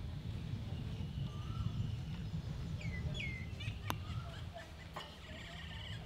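Birds calling among the palms: short whistled calls that drop in pitch, a pair of them about three seconds in, over a steady low rumble. Two sharp clicks follow near the end.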